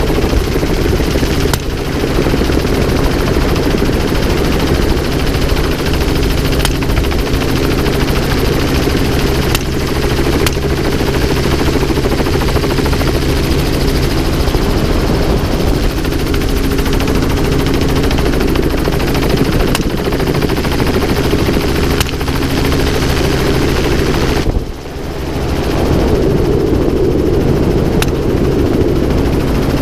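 Helicopter engine and rotor running steadily and loudly, with several sharp gunshots fired at intervals.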